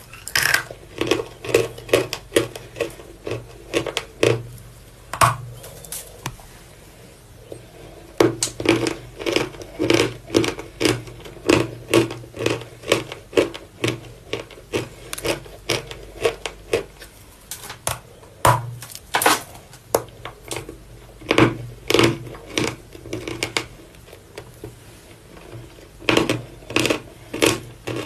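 Close-up crunching of dry, hard edible chalk being bitten and chewed, in runs of quick crisp crunches with two short pauses.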